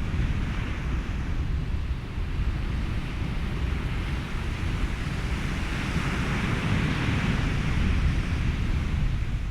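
Ocean surf mixed with wind and white noise: a steady low rumble under a hiss that swells and eases a little past the middle, like a wave washing in.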